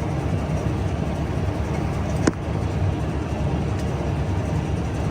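Tractor engine running steadily, heard from inside the cab as a low rumble, with a single sharp click a little over two seconds in.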